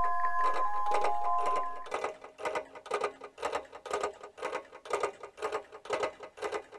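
Chime-like sustained music tones that fade out about two seconds in, giving way to an even mechanical clicking, about two clicks a second, like clockwork.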